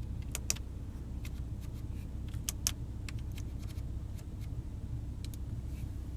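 Irregular light clicks from the Porsche Cayenne's center-console multimedia control knob being turned and pressed, over a steady low hum in the car's cabin.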